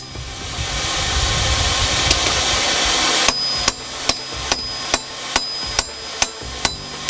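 A steady rushing noise for about the first three seconds, then a hand hammer striking hot steel on an anvil in a regular rhythm, about two and a half blows a second, each blow ringing high.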